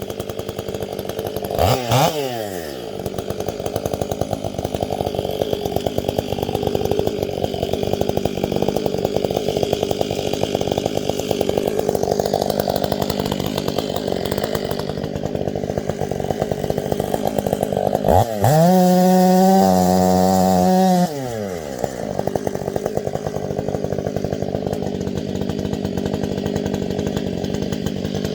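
Two-stroke chainsaw running throughout. It is blipped up and back down about two seconds in, then revved to high speed for about three seconds near two-thirds of the way through before dropping back.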